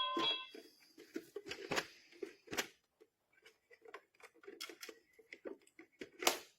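A toy school bus's electronic chime tones stop about half a second in, followed by scattered light clicks and taps of plastic being handled, with one sharper click near the end.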